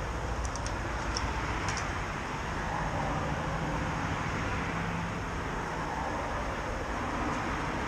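Motorcycle on the move: steady wind and road noise with a low engine hum underneath, and a few faint high ticks in the first couple of seconds.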